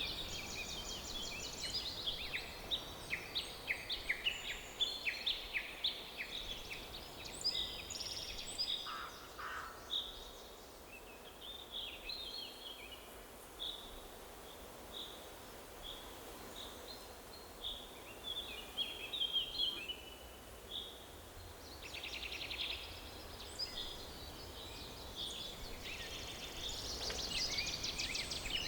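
Several songbirds chirping and singing over a soft steady background hiss. The song is busiest at the start and again in the last quarter, with a sparser run of short, evenly repeated notes in between.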